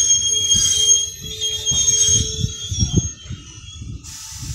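NJ Transit bi-level commuter train braking as it pulls in: a high-pitched brake squeal starts suddenly and holds for nearly three seconds over the low rumble and clatter of the wheels. Near the end a steady hiss begins.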